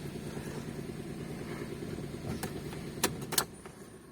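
Toyota Wigo's three-cylinder engine idling steadily and evenly, no longer misfiring now that an open circuit in the fuel injector harness has been repaired. Two sharp clicks come about three seconds in.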